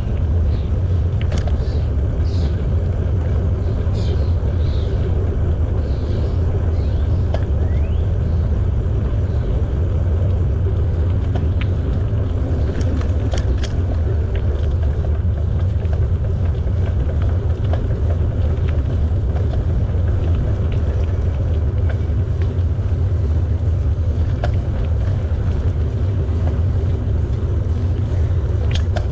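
Steady low rumble of wind buffeting an action camera's microphone on a moving bicycle, with a few short high chirps in the first several seconds.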